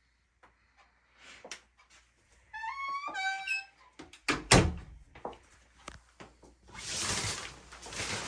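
A door: its hinge squeals in a quick run of rising notes, and about a second later the door shuts with a heavy thunk. Near the end there is a second or so of rushing noise.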